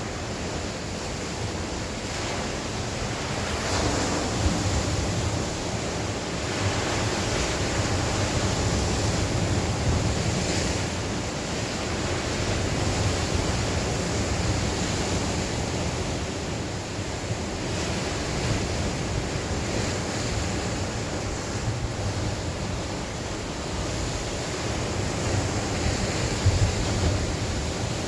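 Sea waves breaking and washing on the shore, swelling and ebbing every few seconds, with wind buffeting the microphone.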